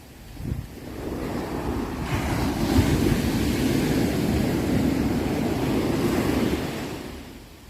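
Ocean waves: one wave swells up about a second in, breaks and washes for several seconds, then fades away near the end.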